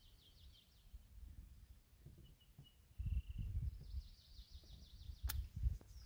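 Birds singing fast, high trills, one at the start and another from about four seconds in, with a few short whistled notes between them. Wind buffets the microphone in gusts, and there is a sharp tap about five seconds in.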